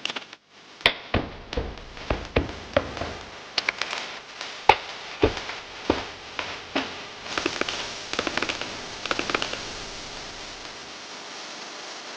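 A series of sharp clicks and knocks at irregular intervals, one or two a second, fading out near the end into a steady hiss.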